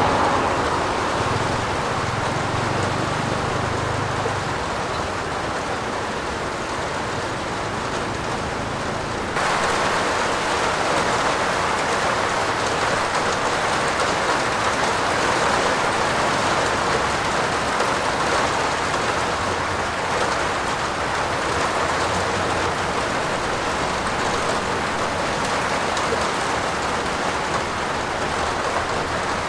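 Steady heavy rain falling, an even hiss of drops. About nine seconds in it suddenly gets a little louder and brighter, then carries on unchanged.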